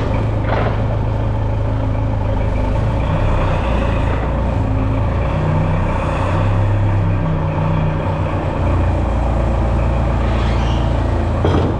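Engine of a machine running steadily soon after starting, its speed shifting up and down slightly a few times.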